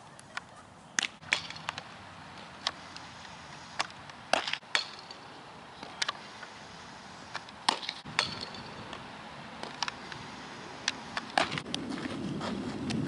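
Softball practice: a string of sharp knocks and cracks, irregularly about once a second, some with a brief metallic ring, like a ball meeting a bat or glove. A low rumble comes up near the end.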